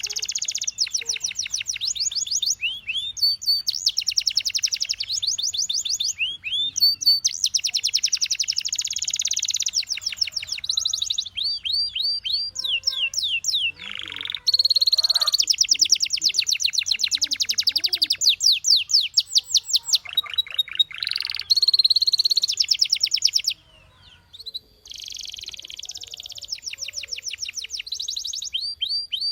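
Domestic canary singing: a long song of very fast, high rolling trills and runs of repeated notes, switching from one trill to the next, with a brief pause about three-quarters of the way through.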